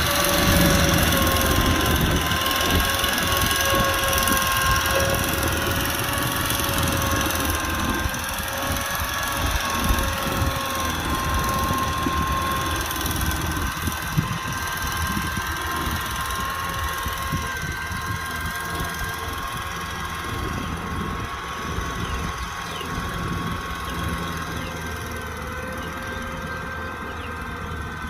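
Kubota tractor's diesel engine running steadily, with a steady whine over the engine note, slowly growing fainter.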